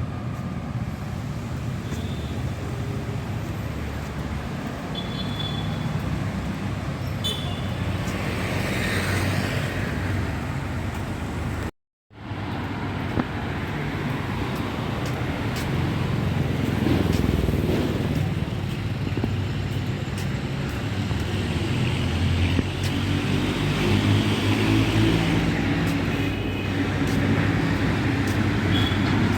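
Steady road traffic noise from passing vehicles and engines, with a brief cut to silence about twelve seconds in.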